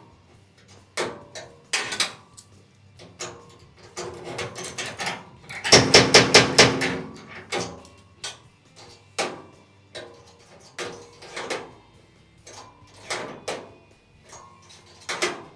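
Metal tools knocking and clanking at irregular intervals, with a quick run of about eight hammer-like blows around the middle.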